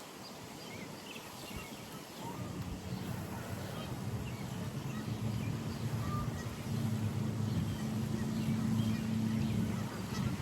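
A steady engine hum with several evenly spaced tones comes in about two seconds in, grows louder and stops shortly before the end, with scattered bird chirps above it.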